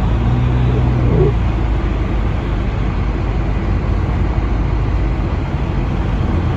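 Lifted Cadillac Escalade on snow tires driving steadily along a snow-covered road: engine hum and tyre and road noise, with the low hum briefly rising in pitch about a second in.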